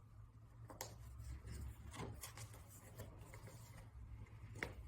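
Quiet room tone: a steady low hum with a few faint, soft clicks and rustles.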